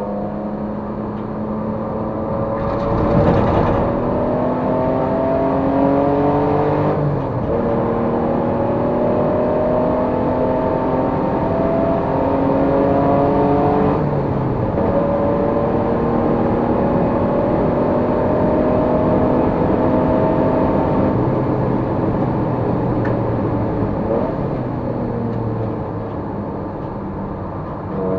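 Race car engine pulling hard through the gears. The revs climb slowly and drop sharply at each upshift, about every seven seconds, then fall away near the end. A short rushing noise comes about three seconds in.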